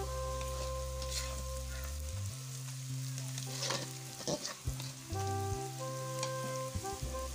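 Onions, peppers and garlic sizzling in hot oil in a kadai, stirred with a spatula that scrapes the pan a few times, most sharply around the middle. Background music with held notes plays underneath.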